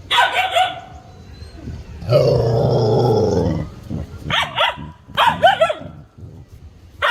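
Dogs playing: clusters of short, quick barks, and one longer growl about two seconds in.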